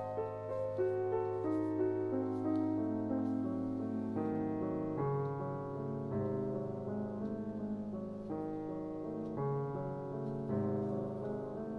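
Soft background piano music, slow sustained chords and notes.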